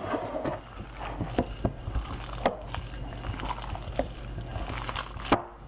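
Ground veggie-burger mixture being stirred together with raw egg whites in a bowl: wet, sticky mixing sounds with irregular small clicks and knocks, and one sharper knock near the end.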